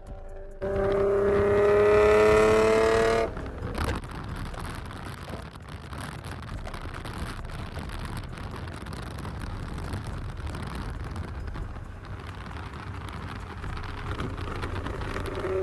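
VQ-series V6 car with a loud aftermarket exhaust accelerating hard, its note rising steadily in pitch for about three seconds. It then cuts off suddenly at a shift or lift-off, leaving a lower, steady engine and road rumble that slowly builds, with the rising exhaust note coming back in at the very end.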